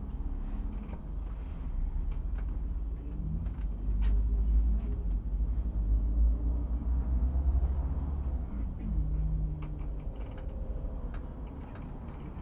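City bus engine running with a heavy low rumble that swells in the middle, its pitch rising and falling briefly a couple of times, with scattered small clicks and rattles.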